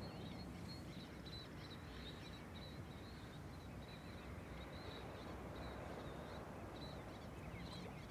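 Birds chirping over and over, short high calls repeated throughout, over a steady low background rumble.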